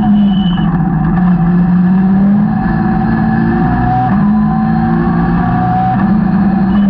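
Caterham 620R's supercharged two-litre four-cylinder engine heard from on board at speed. The engine note rises and drops every couple of seconds as the car is driven hard through the gears and corners, over steady wind and road noise.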